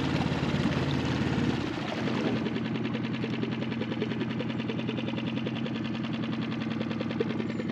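Dinghy's small outboard motor running with a rapid, even putter, throttled back about two seconds in and then running steadily at low speed.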